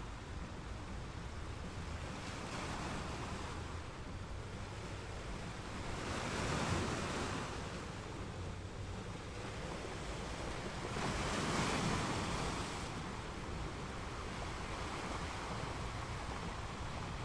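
Sea waves breaking and washing in, with two larger waves surging up about six and eleven seconds in, over a steady low rumble of wind.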